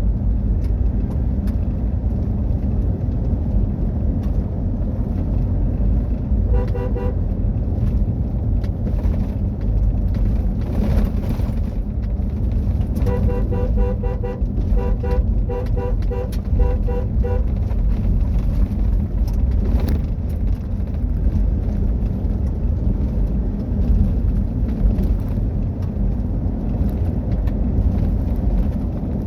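Car driving rough ground, with a loud, steady low rumble from engine and tyres throughout. Two runs of rapid, evenly spaced beeps cut in: a short one about a quarter of the way in and a longer one around the middle.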